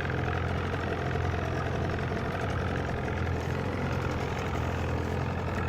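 Johnson 25 outboard motor idling steadily and quietly, just started on new NGK BR9HS spark plugs and still warming up.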